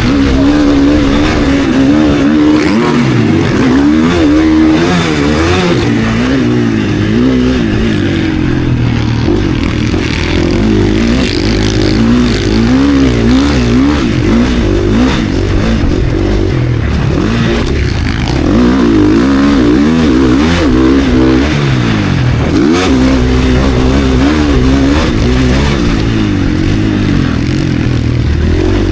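KTM SX-F Factory Edition four-stroke single-cylinder motocross engine being raced, its revs climbing and dropping over and over as the bike accelerates, shifts and slows, with knocks and clatter scattered through it.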